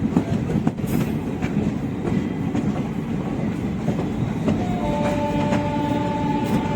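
Passenger express train running along the track, its wheels rumbling and clicking over the rail joints. About five seconds in, a steady high tone joins and holds.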